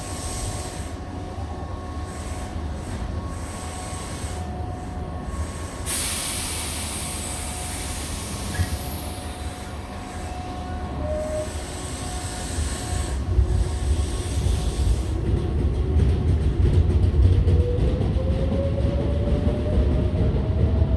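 Tobu 8000 series commuter train at a platform: a sudden hiss of compressed air about six seconds in, then the train pulls away, its traction motor whine rising in pitch as the low rumble of the wheels grows louder.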